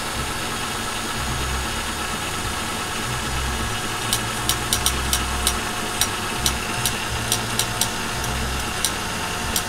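Honda engine idling steadily while its EGR valve is energized with a power-probe tester. From about four seconds in there is an irregular string of sharp clicks. The idle does not change when the valve is opened, which the mechanic takes as a sign that the EGR passages in the intake are clogged with carbon (code P0401).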